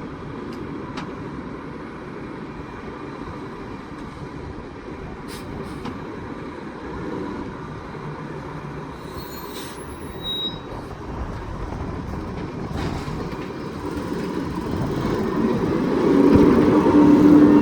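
McNeilus rear loader garbage truck running, with brief high squeaks near the middle. The sound grows louder over the last few seconds, when a steady low whine sets in.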